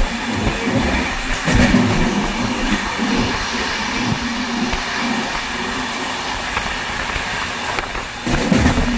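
Passenger train running along the track: a steady rumble and rattle with a few irregular low knocks from the wheels.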